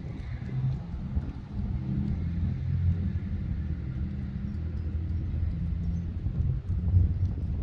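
A steady low engine hum with a rumble underneath.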